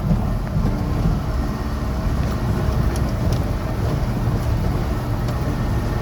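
Vehicle driving along a rough hill road: steady low engine and road rumble, with a few faint light knocks.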